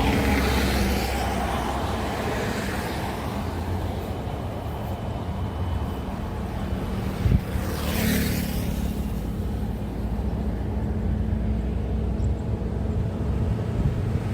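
Highway traffic of heavy vehicles: a steady low diesel engine rumble, with one vehicle rushing past about eight seconds in and another approaching near the end. A short sharp knock sounds just before the pass-by.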